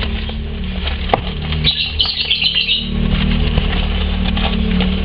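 Lovebird chicks chirping in a burst of high calls about two seconds in, over scattered small rustles and clicks and a steady low hum.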